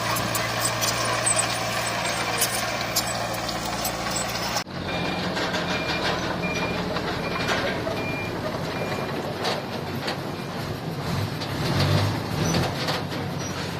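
A heavy diesel machine's engine running steadily. It is followed by a vehicle's reversing alarm beeping about seven times at an even pace over the engine, as the machine backs up. The engine rumble swells near the end.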